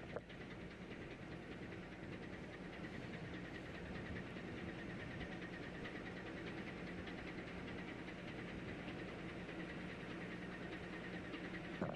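Steady low hum of a ship's engine and machinery, with a faint high, rapidly pulsing whine over it and a couple of small clicks near the start and the end.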